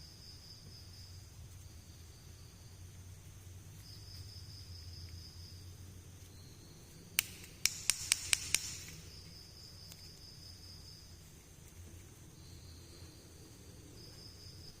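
A quick run of about six sharp clicks, about seven to eight and a half seconds in, from small plastic toy pieces being handled. Under it, a faint high trill comes and goes over a low hum.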